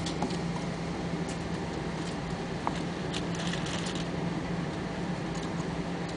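Steady hum and rush of a Boeing 777-300's cabin on the ground before takeoff, with a few faint clicks and rustles near the seat.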